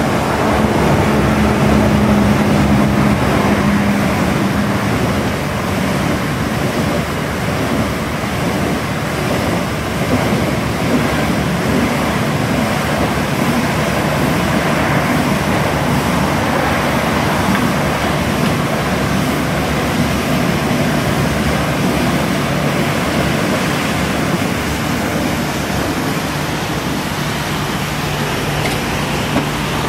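High-pressure water spray from a self-service car wash wand, hissing steadily, with a low hum during the first few seconds and again near the end.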